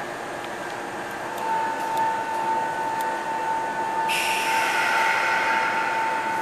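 Sagami Railway 7000 series electric train standing at an underground platform before departure. A steady high-pitched tone comes in about a second in, and about four seconds in a loud hiss of released air begins and carries on.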